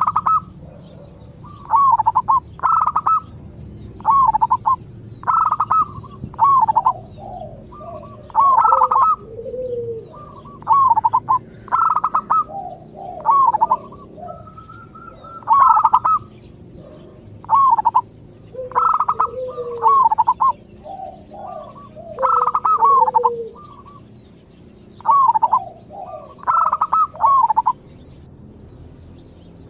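Zebra dove (perkutut) cooing: short phrases of quick rising-and-falling notes, repeated every one to two seconds, some trailing off into lower, softer notes.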